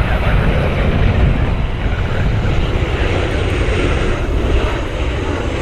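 Jet airliner's engines, a steady low rumble as the aircraft passes on its approach to land.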